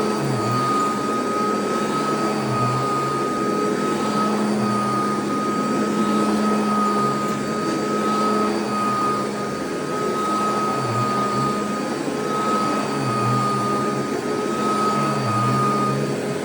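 Royal vacuum cleaner running steadily over carpet: a constant motor whine and hum over the rush of air.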